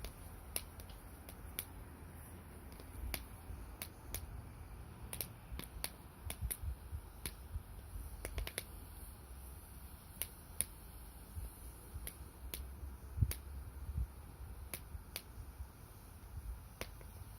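Firewood burning in a small wood-burning camp stove, crackling with irregular sharp pops and snaps, a few a second, over a low rumble.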